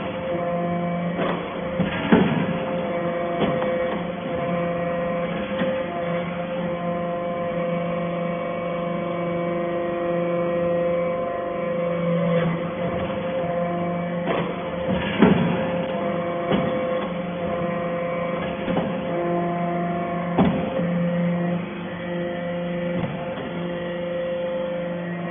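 Hydraulic metal-shavings baler running: a steady hum from its motor and hydraulic pump, with scattered sharp knocks, the loudest about two, fifteen and twenty seconds in.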